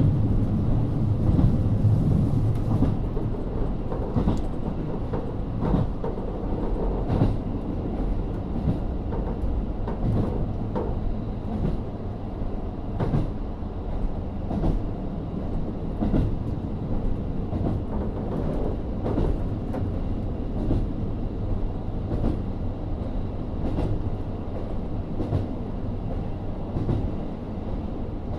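Onboard running sound of a KiHa 40 series diesel railcar, with its Niigata DMF13HZB diesel engine's steady hum under a continuous rumble of wheels on rail. Rail-joint clicks come at an even beat, about one every one and a half seconds.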